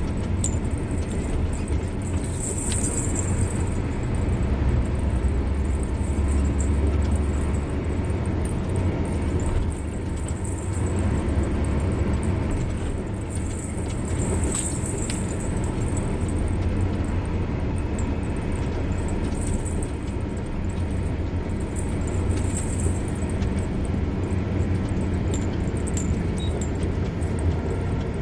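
Car driving along a road: a steady low rumble of engine and tyres, with a few faint high ticks or rattles now and then.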